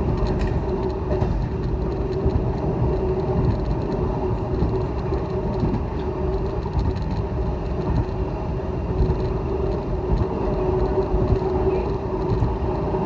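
Passenger train running at speed, heard from on board: a steady low rumble of wheels on the rails with a constant hum above it.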